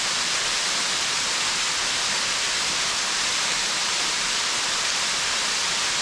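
Small waterfall splashing steadily, a constant hiss of falling water, flowing strongly after heavy rain.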